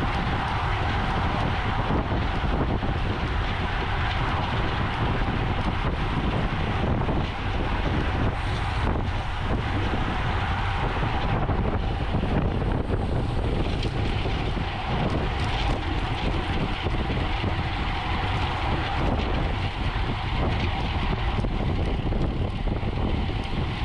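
Wind buffeting the microphone steadily, with a low rumble underneath, from a road bicycle moving at race speed.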